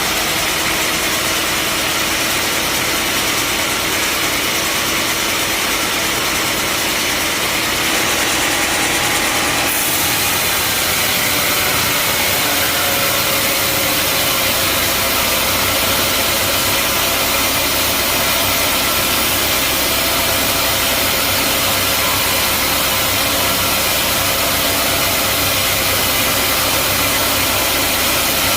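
Band sawmill running with a loud, steady mechanical din of motor and blade. About ten seconds in the sound shifts and the hiss turns brighter, then holds steady.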